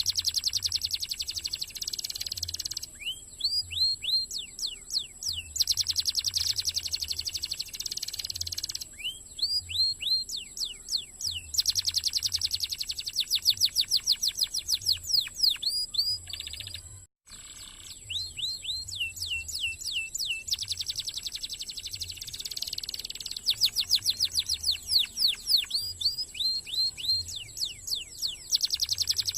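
Domestic canary singing continuously in a fast, dense song: rapid rolling trills alternate with runs of quick down-slurred whistled notes. The song breaks off for a moment about two-thirds of the way through.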